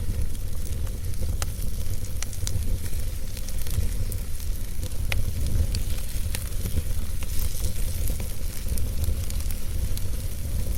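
Wood fire burning in a fireplace: a steady low rumble of flames with sharp crackles and pops from the burning logs, scattered irregularly about once a second.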